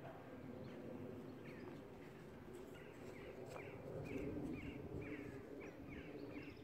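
A bird calling over and over in short, quick notes, about three a second, starting about two and a half seconds in, over a faint steady low hum of the outdoors.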